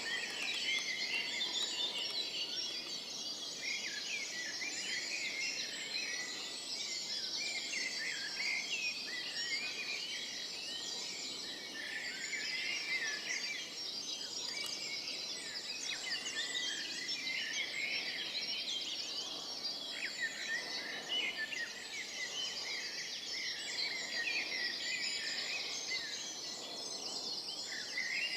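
Dawn chorus of many songbirds singing at once in woodland: a dense, unbroken tangle of overlapping chirps, trills and whistles.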